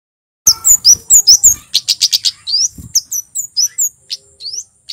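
A male kemade jawa (Javan kemade songbird) singing loud, rapid high-pitched chirps and short swooping whistles. The notes pour out in a dense burst about half a second in, then thin to scattered chirps.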